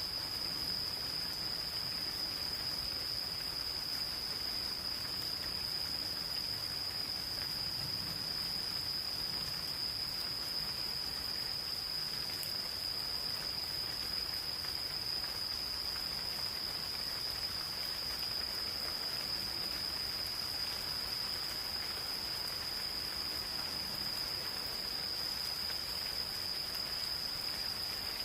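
Gentle rain falling in a forest, with an insect's continuous high-pitched trill held steady throughout.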